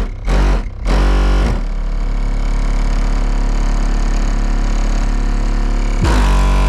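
Deep bass test music playing loud through an upgraded car stereo with subwoofers on a Skar 1500 amplifier, with a distorted, guitar-like edge. A few short chopped notes are followed by one long held bass note from about 1.5 s in, and a new loud note starts near the end.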